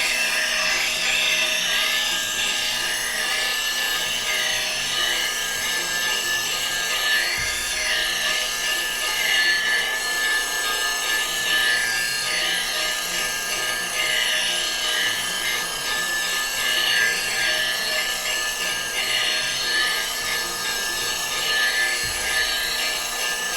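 Grinder running with a woodturning tool held against the wheel: a steady whine with a rasping scrape as the steel edge is ground sharp.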